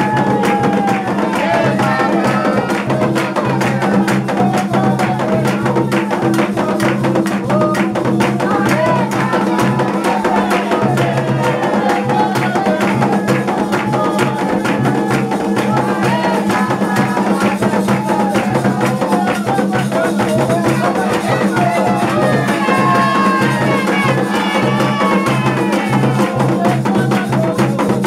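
Chant to the orixá Xangô in Afro-Brazilian religious style: voices singing over drums and percussion with a steady, dense beat.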